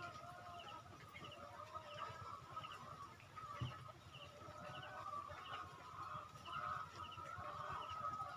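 Flock of caged laying hens clucking and calling steadily, faint, with small high chirps repeating about twice a second.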